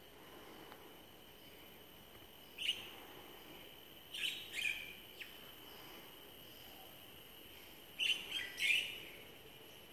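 Birds calling in the garden: short, sharp chirps, one, then a pair, then three close together near the end, over a faint steady high whine.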